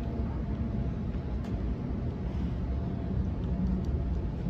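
Interior running noise of a Sydney Trains Waratah B-set electric train between stations: a steady low rumble of the wheels on the track and the traction equipment, with faint steady tones above it and a light click or two.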